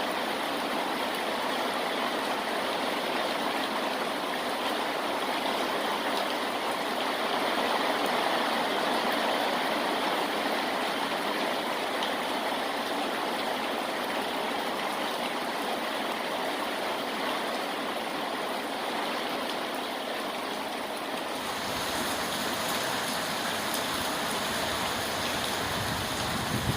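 Steady rain falling, an even hiss of water without a break. About twenty seconds in the sound shifts, taking on a deeper rumble underneath.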